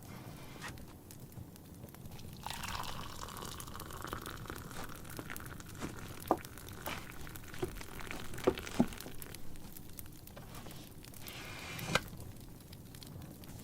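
Tea poured steadily into a cup for about nine seconds, starting a few seconds in and stopping near the end, over the crackle of a wood fire with a few louder pops.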